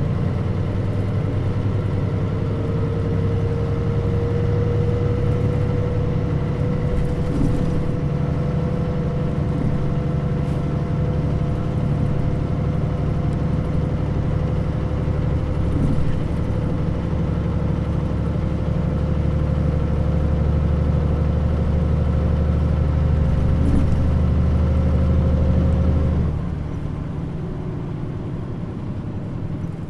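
Mitsubishi Fuso KL-MP35JM-based city bus driving, its diesel engine pulling steadily under load with a whine that climbs slowly in pitch. About 26 seconds in, the engine note drops suddenly as the throttle is let off.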